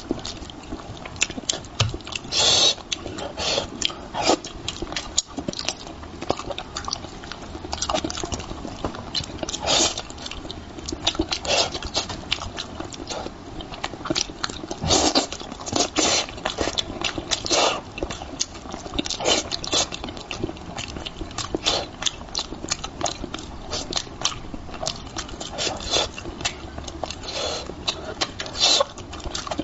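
A person chewing and smacking while eating spicy braised fish, with many short wet clicks coming at an irregular pace.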